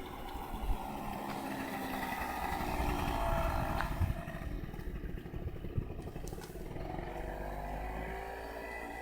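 Motorbike engine running while being ridden, its pitch falling and then rising again with the throttle.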